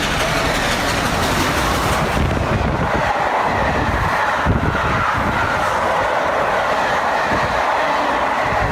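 A train going by at speed, a steady loud rush and rumble with some knocks of wheels over rail joints.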